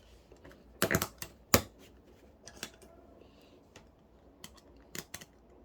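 LEGO plastic pieces being handled and snapped together, a series of sharp plastic clicks, the strongest about a second in and again near the end.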